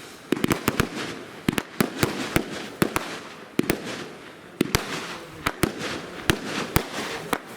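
Firework cake firing: a rapid, uneven run of sharp bangs, about two or three a second, with noise between the shots.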